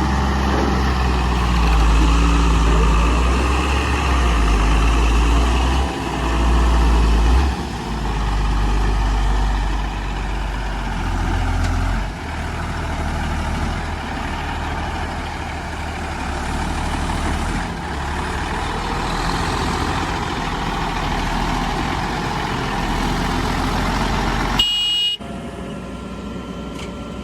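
Heavy diesel engine running under changing load, its low note stepping up and down every few seconds. About 25 seconds in, the sound cuts off abruptly to a quieter engine.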